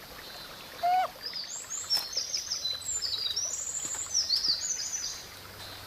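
A songbird singing a quick run of high, clear notes over a faint steady forest background. A short, louder, lower call rises in pitch about a second in.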